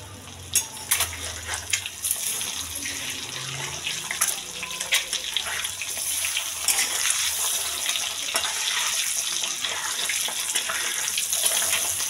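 Boiled eggs sizzling and crackling in hot mustard oil in a kadai, being turned with a flat metal spatula, with a few sharp spatula knocks near the start. The sizzle grows louder after about two seconds.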